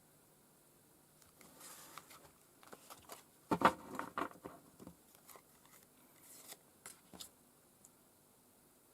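Tarot cards being shuffled and handled: a run of short papery clicks and rustles, loudest about three and a half seconds in, that stops after about seven seconds.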